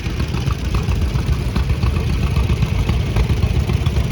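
Vintage farm tractor engine running steadily.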